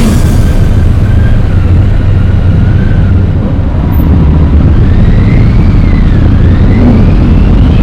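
Motorcycle engines running during a group ride: a loud, steady low rumble, with a faint whine that rises and falls in pitch.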